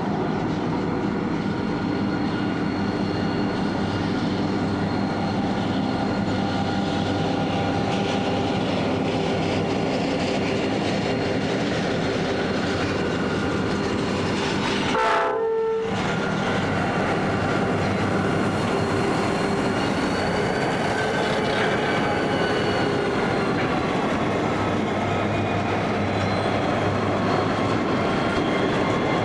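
Freight train passing, led by a lash-up of diesel-electric locomotives hauling empty grain hopper wagons: a steady dense engine and wheel noise with several held tones. The sound drops out briefly about halfway through, then carries on.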